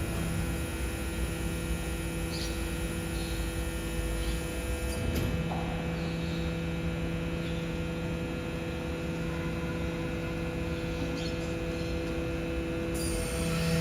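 BYD electric garbage truck's compactor running with a steady hum, its low tone dropping out briefly about five seconds in, with a few faint clicks.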